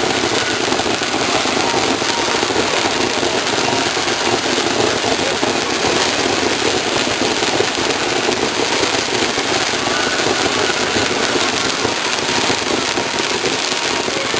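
Aerial fireworks in a star mine barrage, a dense, continuous crackling that keeps a steady level throughout, with no single bang standing out.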